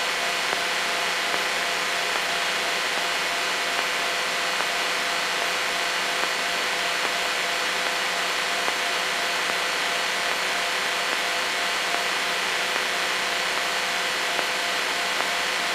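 Cessna 152's four-cylinder Lycoming O-235 engine and propeller running steadily at idle while the aircraft holds short of the runway. It makes an unchanging drone with a constant hiss.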